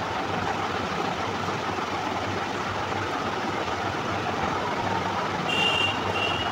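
Steady hiss of chicken and potatoes sautéing in a kadai on the stove. A brief high-pitched tone sounds twice near the end.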